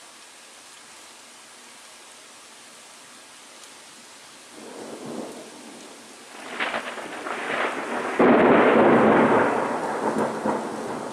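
Thunderstorm: steady rain hiss, then a thunderclap that builds with crackling, breaks loudest about eight seconds in, and rolls away.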